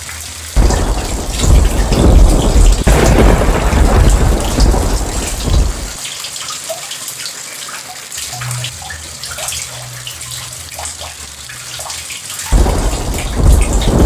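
Heavy rain falling steadily, with two rolls of thunder. The first breaks in suddenly about half a second in and rumbles for about five seconds; the second starts near the end.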